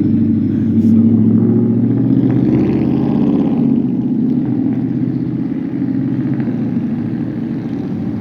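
A motor vehicle's engine running, loud in the first few seconds and then slowly fading.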